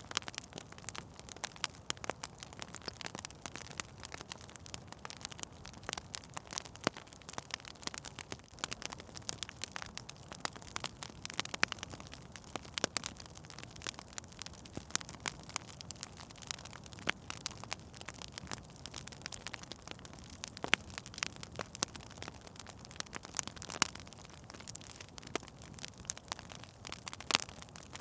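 Fire burning in a fireplace, crackling with many irregular pops and snaps over a soft low rush; a few sharper pops stand out, around twelve seconds in and again near the end.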